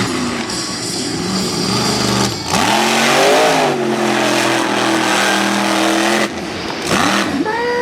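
Mega truck engine revving hard. The revs climb about two and a half seconds in, hold steady and high for a few seconds, then drop off suddenly, with another short rev near the end.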